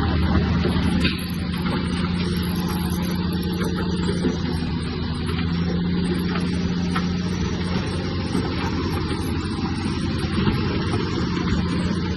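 Heavy diesel engine of earthmoving machinery running steadily, easing slightly in loudness about a second in.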